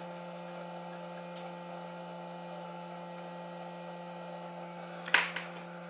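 Steady electrical hum with several fixed tones over a faint hiss, and one short sharp noise about five seconds in.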